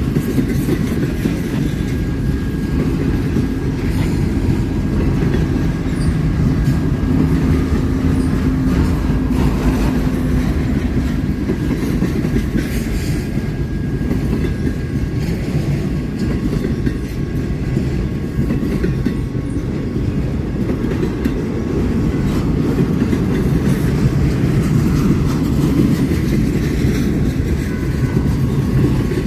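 Train cars rolling past steadily, wheels rumbling on the rails, with faint high steady tones from the wheels.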